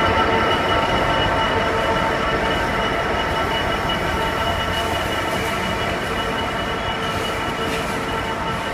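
Rail-carrying freight train rolling past, its wagon wheels squealing in several steady high tones over the rumble of the wheels on the track. The sound slowly gets quieter.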